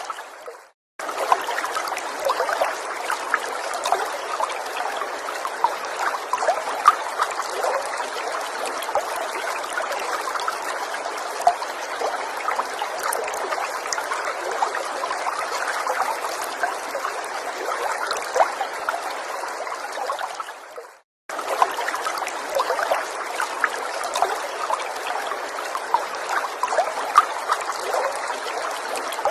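Small forest stream trickling and babbling steadily, with many small splashes. Twice, about a second in and again about two-thirds of the way through, the sound fades out to a moment of silence and then starts again abruptly.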